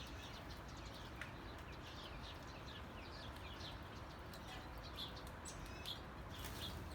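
Birds chirping faintly in many short, quick calls over a steady low background hiss, a little louder near the end.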